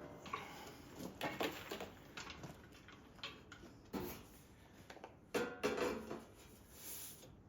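Sheet steel rattling, scraping and clanking as it is worked through a hand-cranked bead roller. The noises are irregular, with a louder cluster of clanks about five and a half seconds in.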